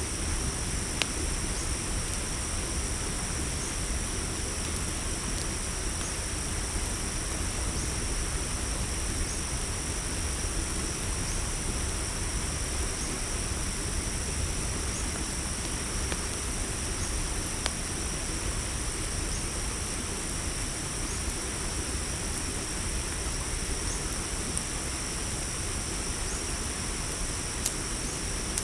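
Crickets trilling in a steady high chorus over a low constant rumble, with a few sharp crackles from a campfire popping now and then.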